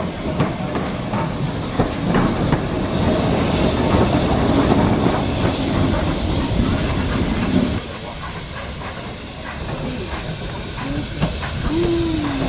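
Steam train running: a steady hiss of steam over rail clatter and knocks, the hiss cutting off abruptly about eight seconds in, leaving quieter running noise.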